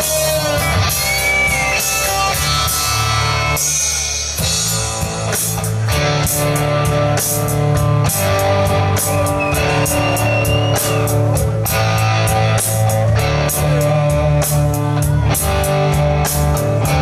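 Live rock band playing an instrumental passage: guitar over a steady drum-kit beat, with a few sliding high notes.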